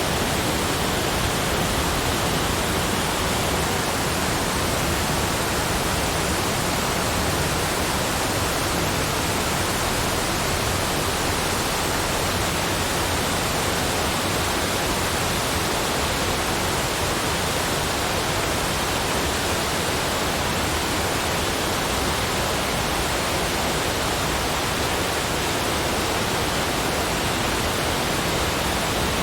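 Steady, unchanging rushing noise, spread evenly from deep rumble to high hiss, with no separate sounds in it.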